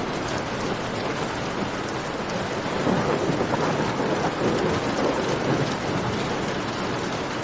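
Steady heavy rain. A deeper rumble swells in about three seconds in and eases off about three seconds later. Faint campfire crackles ticking through it.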